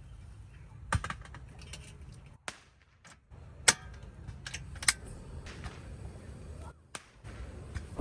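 Several sharp clicks and knocks, the loudest near the middle, over a steady low rumble.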